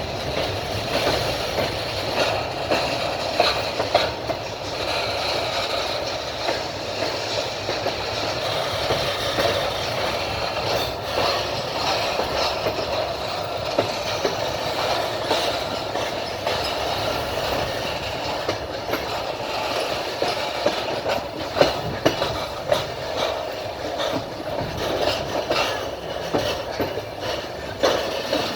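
Moving passenger train heard from its carriage window: a steady running rumble of the wheels on the rails, with scattered clicks and knocks as the wheels pass over the rail joints.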